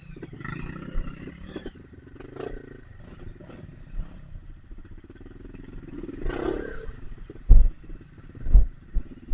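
Dirt bike engine revving unevenly while labouring through mud, with a louder rev about six seconds in and two heavy thumps near the end.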